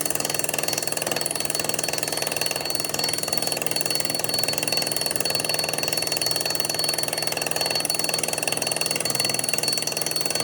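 Metalworking machinery running steadily, with a fast even rattle and a steady high whine.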